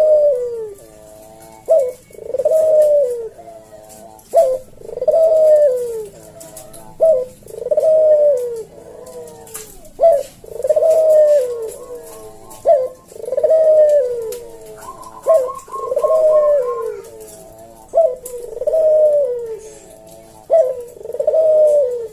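Puter dove (domestic ringneck dove) cooing in a slow, evenly spaced rhythm, the 'kuk deruk' call. Each phrase is a short sharp note followed by a longer falling coo, and it repeats about every two and a half seconds.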